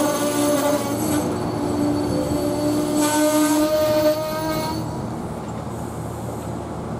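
Train rolling past with a wheel squeal: a steady high tone with overtones that sounds through the first second and again about three seconds in. The rolling noise eases after about five seconds.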